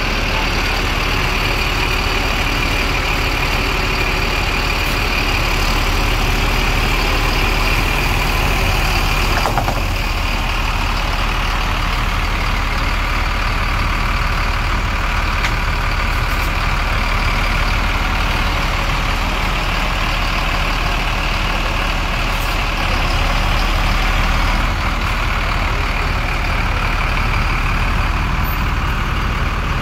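Heavy diesel engine running steadily at idle, with a constant low hum and no change in pace.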